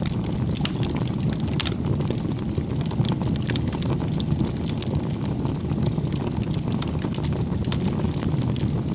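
Crackling wood fire: irregular sharp pops and crackles over a steady low rush.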